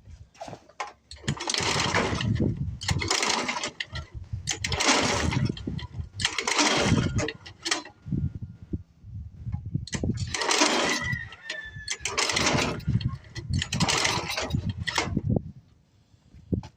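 Snowblower's Tecumseh engine cranked over about seven times in quick succession, each try lasting about a second, without catching. This is a cold engine that won't fire, which the owner puts down to fuel not evaporating in the cold.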